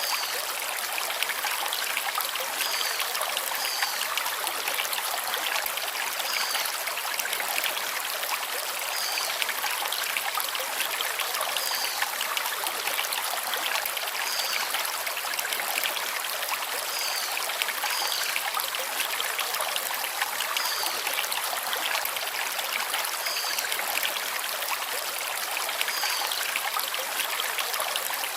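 Forest stream running over river stones, a steady rushing and trickling. A small bird gives a short, high call over it about every three seconds.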